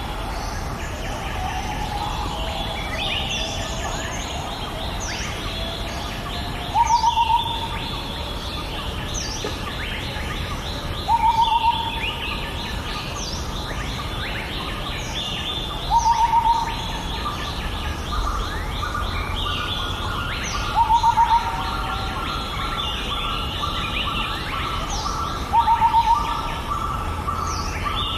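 Birdsong: many birds chirping, with one bird repeating a short call of a few quick notes about every four to five seconds, the loudest sound.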